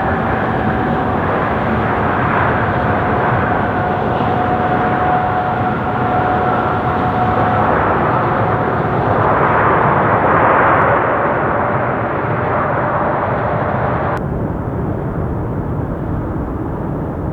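Jet engine noise from a Boeing 777 airliner, a loud steady rush with a fan whine that drops slightly in pitch as the aircraft moves. The noise swells about ten seconds in. About fourteen seconds in, the higher part of the noise suddenly falls away.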